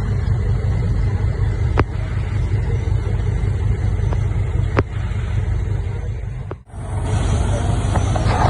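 Heavy diesel earthmoving machinery engine running with a steady low rumble and occasional sharp clanks. It breaks off for an instant about two-thirds through, then resumes with more rattling.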